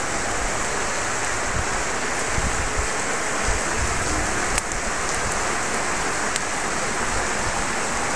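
Heavy rain falling steadily, a continuous even hiss, with two or three sharp taps partway through.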